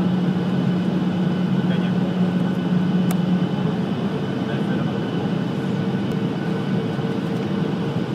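Steady airliner cabin noise: an even rush with a low engine hum. The low tone weakens about three and a half seconds in as a higher steady tone comes in, and there is one faint click about three seconds in.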